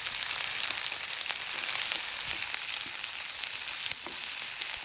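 Sliced onions frying in hot oil: a steady sizzle with scattered small pops and crackles.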